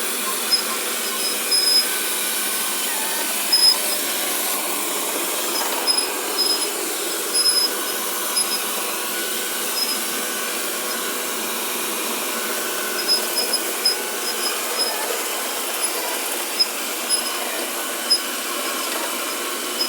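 Vacuum cleaner running steadily, with short high-pitched squeaks that recur in irregular clusters over the motor noise.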